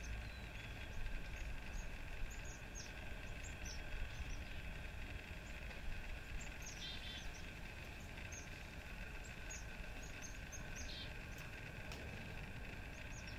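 Small birds chirping in short, high, falling notes, scattered throughout, with two brief trills, over a steady background hum and low rumble.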